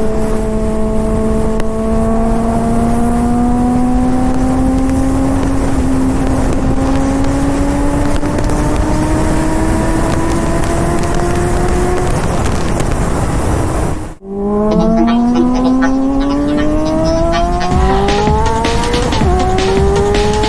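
Honda CBR600RR inline-four motorcycle engine with a loud aftermarket exhaust, pulling in gear with its note climbing slowly under wind rush on the microphone. The sound cuts out briefly past the middle, then the revs climb faster, with a shift near the end.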